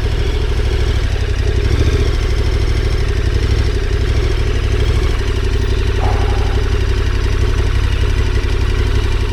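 KTM 1290 Super Adventure R's V-twin engine idling steadily.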